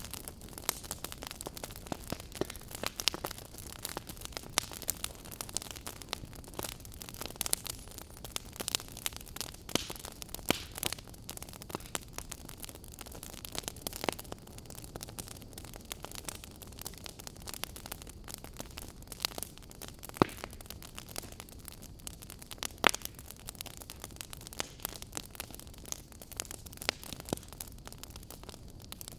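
Wood fire crackling: a steady low hiss with frequent irregular sharp pops and snaps from the burning logs, a few of them louder than the rest.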